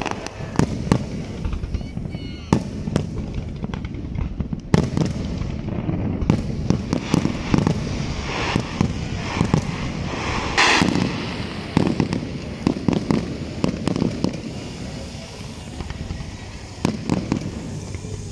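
Fireworks display: aerial shells bursting one after another in sharp bangs, with a busier run of rapid pops and bangs around the middle.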